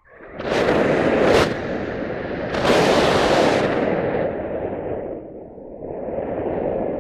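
Wind buffeting the microphone: a steady low rumble with two stronger gusts, about half a second in and again near three seconds.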